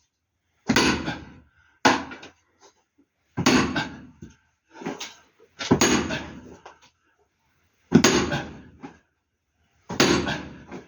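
Heavy blows of a wood-splitting tool on a thick firewood log: about half a dozen sharp strikes, one to two seconds apart, each with a short ringing tail, while the log resists splitting.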